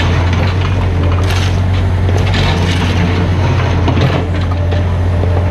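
Mini excavator's diesel engine running steadily and loud, with intermittent crunching as the machine works the ground.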